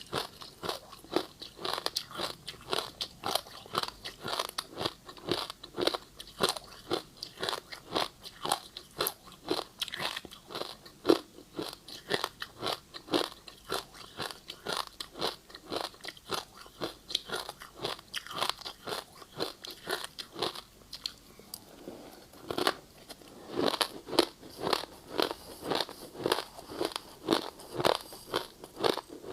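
Passion fruit ice being bitten and chewed close to the microphone: a rapid run of sharp, crackly crunches, two to three a second. They ease off briefly about three quarters of the way through, then pick up again.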